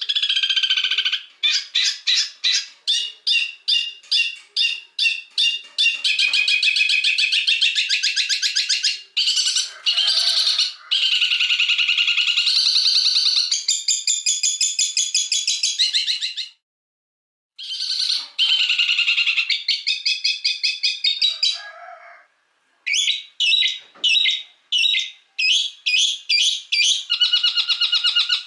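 Songbirds singing in runs of sharp, repeated high chirps and dense trills, with two short breaks about two-thirds of the way through. This is a masteran track: chosen songbird songs played back to teach caged songbirds.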